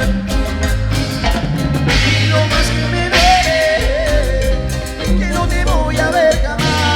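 Live band playing an instrumental passage of a Latin dance song. A steady drum beat and bass line carry it, and a gliding melodic lead comes in about halfway through.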